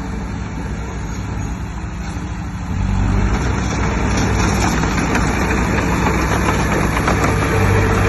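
Heavy earthmoving machine's diesel engine running steadily, then about three seconds in growing louder and rougher as the machine works harder.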